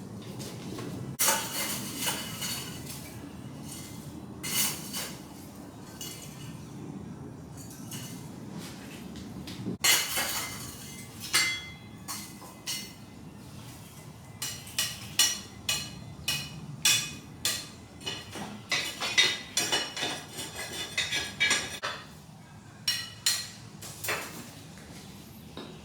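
Irregular metal-on-metal strikes and clanks with a ringing tail, steel tools and stock being struck and handled at the forge. They come about one to two a second, thicker in the second half, over a steady low rumble.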